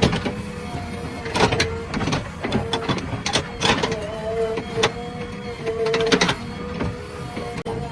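JCB earth-moving machine working: a steady machine whine that comes and goes, with frequent sharp metallic clanks and knocks.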